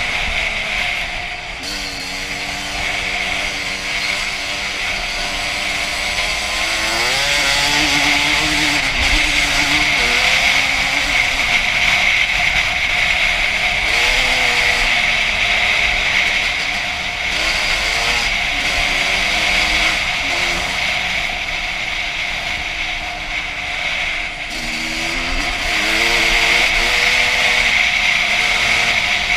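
2001 Honda CR250's single-cylinder two-stroke engine being ridden, its revs rising and falling every few seconds as the throttle is worked.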